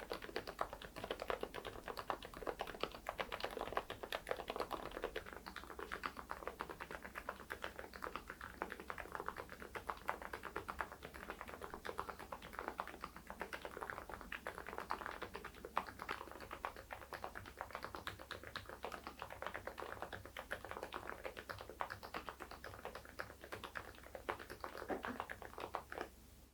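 Continuous typing on an AULA F99MAX mechanical keyboard fitted with silent linear switches (새벽 저소음 리니어) and Odokey baseball keycaps: a dense run of keystrokes, several a second, that stops abruptly at the end.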